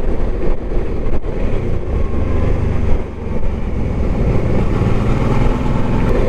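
Motorcycle engine running with wind rush on an onboard microphone, held in a low gear on a downhill with the engine braking. The loudness dips briefly about three seconds in.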